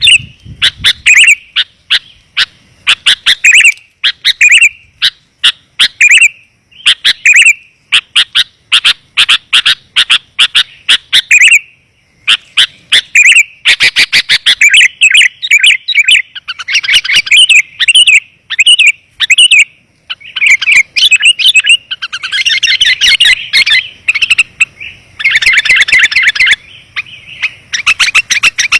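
Sooty-headed bulbul (kutilang) calls played as a lure: loud, rapid chirping in dense runs, with short breaks around twelve and twenty seconds in.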